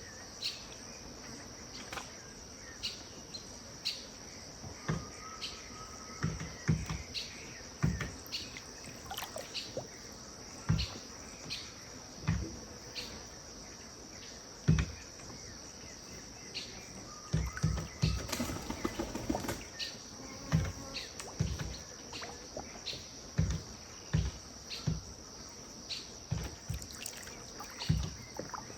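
Riverside dusk ambience: a steady high insect chorus, with short bird calls and many brief sharp pops scattered throughout.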